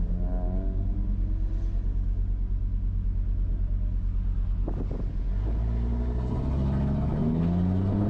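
Audi RS3 race car engine running at steady revs, then climbing in pitch over the last few seconds as the car accelerates, with a few sharp clicks just before the climb.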